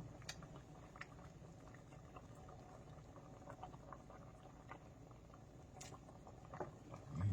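Pot of chicken noodle soup simmering, with faint scattered bubble pops over a low steady hiss. A soft low thump comes near the end.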